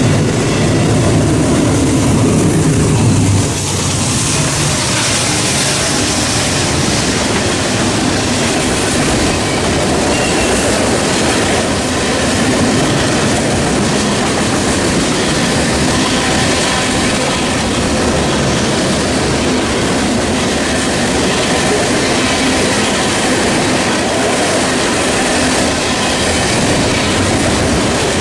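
A Norfolk Southern freight train rolling past, its cars making a continuous rolling clatter on the rails. A deeper rumble fills the first few seconds, then gives way to a steadier, brighter rolling noise.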